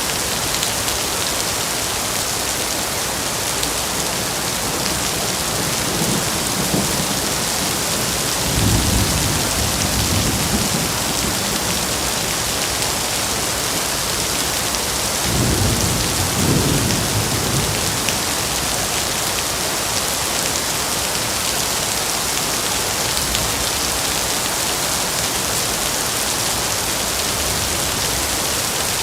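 Steady rain with several low rumbles of thunder in the first two-thirds, the longest and loudest about halfway through.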